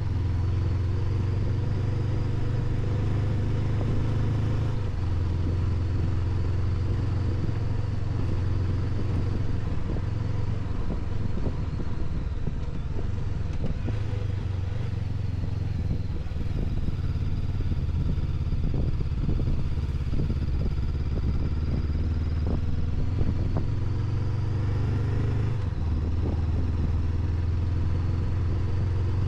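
Honda NX500's parallel-twin engine running steadily under way. Its note shifts at about five seconds and again near the end. A stretch of clattering comes in the middle.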